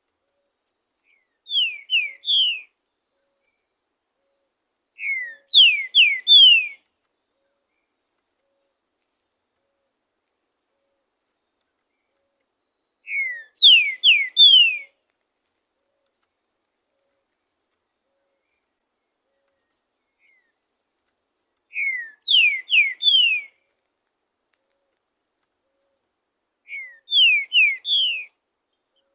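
Green-winged saltator (trinca-ferro) singing: five short phrases spaced several seconds apart, each of three or four quick, loud whistled notes that slide downward in pitch.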